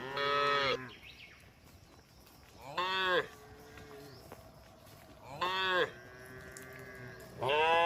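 Cattle mooing: four short calls about two and a half seconds apart, each rising and then falling in pitch.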